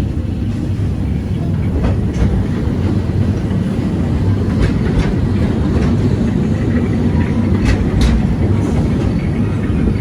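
Walt Disney World Railroad's narrow-gauge steam train running along the track, heard from aboard a passenger car: a steady low rumble with a few sharp clicks of the wheels over rail joints.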